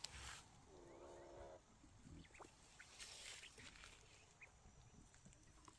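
Faint sounds of aviary poultry (quails and bantam chickens): one low call lasting about a second, starting just under a second in, then a few short high chirps and light rustling.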